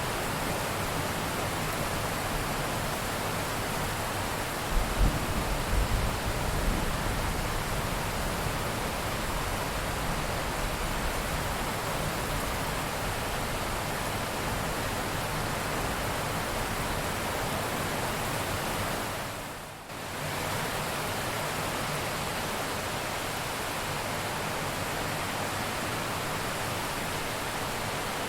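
Steady heavy rain, a dense even hiss, with a short low rumble of distant thunder about five seconds in. The rain briefly dips and comes back about twenty seconds in.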